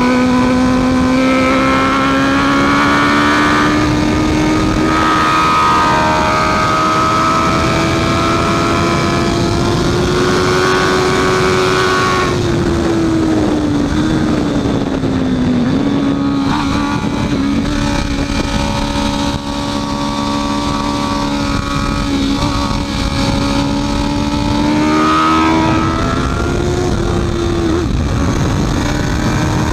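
Honda CB650F inline-four engine running hard at racing speed, its pitch climbing slowly for about twelve seconds, then falling away over a few seconds as the bike slows, then holding fairly level with another brief rise and fall near the end. A steady rush of noise runs underneath.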